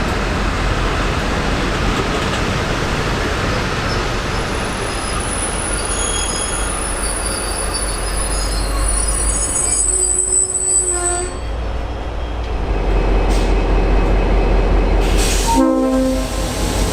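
V/Line N class diesel locomotive and its carriages moving through a station: a steady low engine rumble and rolling noise, with high-pitched wheel squeal in the middle.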